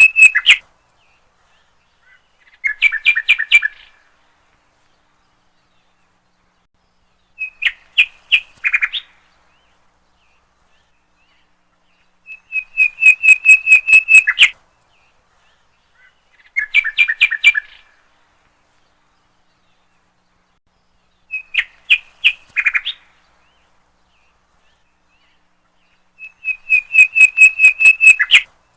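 A bird singing short phrases of rapid, repeated high notes, each phrase lasting one to two seconds and coming about every four to five seconds, with silence between.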